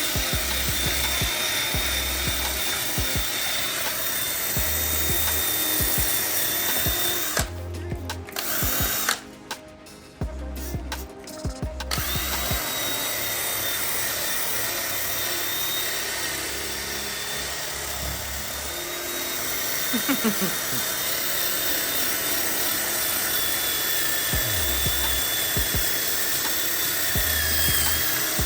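Steady sanding noise as a plastic headlight lens is scuffed with fine-grade sandpaper, dropping out briefly around the middle, over background music.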